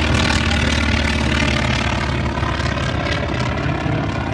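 Piston-engined propeller warbird running at power overhead: a loud, steady engine-and-propeller drone that eases slightly toward the end.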